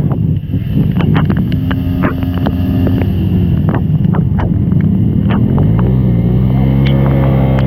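Vehicle engine running, with scattered sharp clicks and knocks over a rough rumble, settling into a steady drone about five and a half seconds in.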